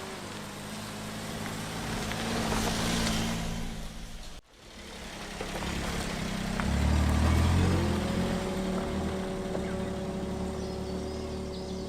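Daihatsu Hijet kei van's engine running with a steady low drone. After a sudden break about four seconds in, the engine sound grows louder and rises in pitch, then holds steady as the van drives. Faint bird chirps come in near the end.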